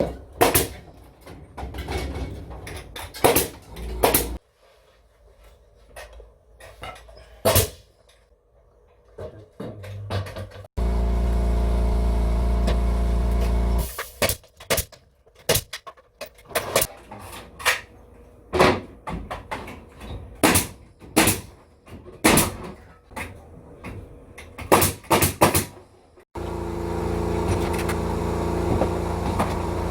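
Building-site work sounds in short cut-together segments: many sharp, irregular knocks and clicks from interior carpentry work on a ceiling, broken by two stretches of steady machine hum, one starting about a third of the way in and another near the end.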